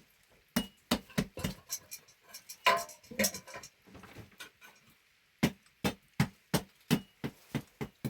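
A series of sharp knocks and clicks, irregular in the first half with one louder clink near the middle, then a regular run of about three knocks a second in the second half.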